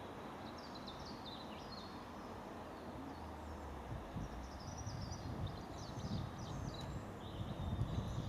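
Small birds chirping and singing faintly over a low outdoor rumble, with thin quick trills and twitters throughout.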